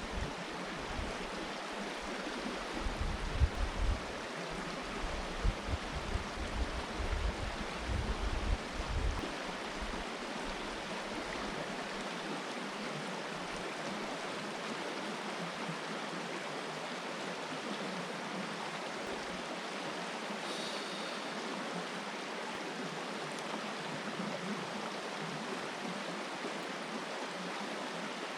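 River water flowing steadily, an even rushing hiss. Low, irregular rumbling bumps come over it during the first ten seconds or so.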